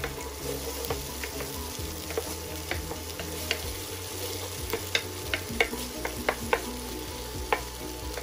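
Chopped onion, garlic and celery sizzling in hot oil in a square pan while a wooden spoon stirs them, scraping and tapping against the pan. The taps come every second or so, bunching up between about five and seven seconds in.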